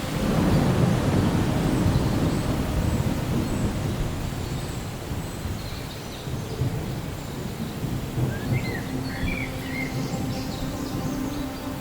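A roll of thunder rumbles low, swelling right at the start and fading away over several seconds, over steady rain.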